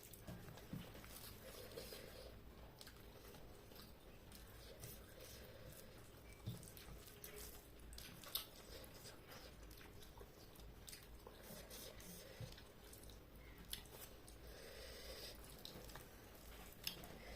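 Faint eating sounds of a person chewing chicken curry with rice: soft, wet chewing and squishing, with scattered small clicks and a few sharper ticks.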